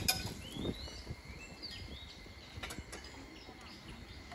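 Small birds chirping in short, quick, pitch-sliding calls over a low steady outdoor rumble, with a few light clicks near the start and again about three seconds in.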